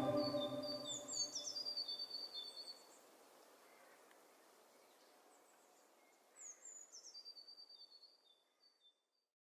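Background music dies away, then a small bird chirps in two short bouts, each a quick falling call followed by a rapid run of high, short chirps.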